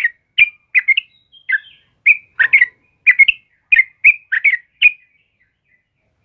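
Yellow-vented bulbul (trucukan) calling: a quick run of short, sharp chirping notes, two or three a second, that stops about five seconds in.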